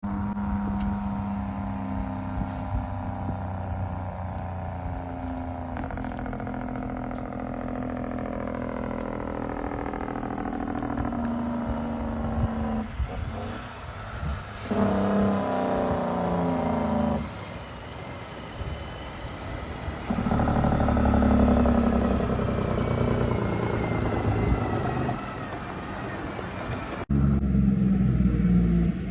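Truck engines running: one long note that falls steadily in pitch over the first dozen seconds, then louder stretches with sudden changes of engine sound.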